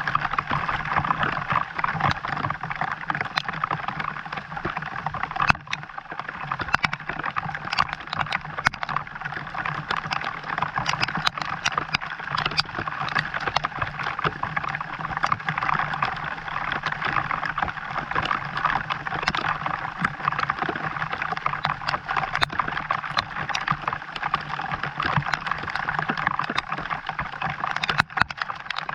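Steady rain falling, with many sharp ticks of drops striking close by, over a low steady hum.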